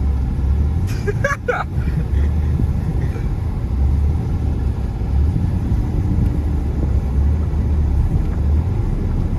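Ford Ranger pickup running with a deep rumble while it drifts on snow, the low drone swelling and easing every second or two. A few short, sharp sounds come about a second and a half in.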